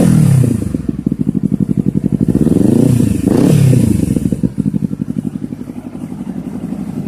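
Motorcycle engine through an aftermarket stainless-steel exhaust, falling back from a rev, revved again about three seconds in, then settling to a pulsing idle. The sound drops away suddenly at the very end.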